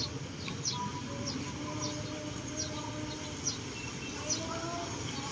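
A bird calling: short high chirps repeated about once a second, over a steady low background noise.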